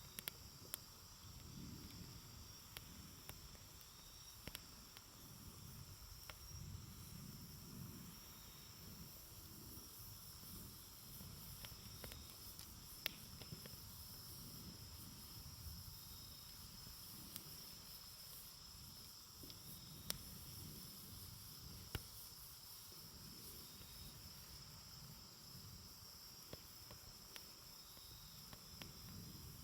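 Wood campfire burning softly, with scattered sharp crackles and a few louder pops over a low rustle of flame. A steady high chirring of insects runs underneath.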